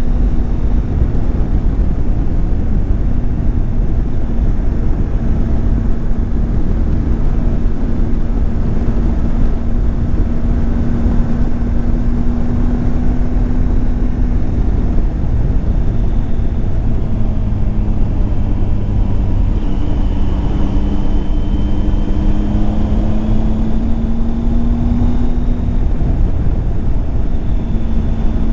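Triumph Tiger 800 XCX's three-cylinder engine running under way. Its note holds steady, drops about halfway through, climbs gradually, then falls back near the end, over a steady low rumble.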